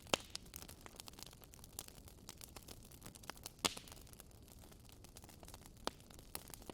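Wood fire crackling in a fireplace: irregular small crackles over a low hiss, with a louder pop just after the start and another about three and a half seconds in.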